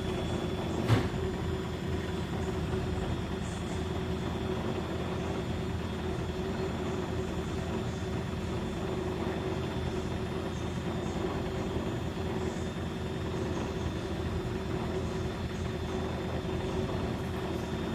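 Beko front-loading washing machine spinning its drum with a steady, fast-rippling hum, and a single sharp knock about a second in.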